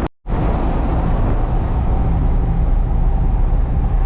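Steady low rumble of a Hino cab-over box truck driving at road speed, heard from inside the cab: engine and road noise. The sound cuts out completely for a moment just after the start.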